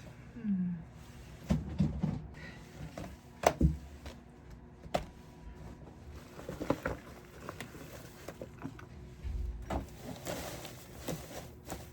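Scattered knocks, clicks and light rustles of objects being handled and set down, the loudest a pair of sharp knocks about three and a half seconds in, with one short falling squeak about half a second in.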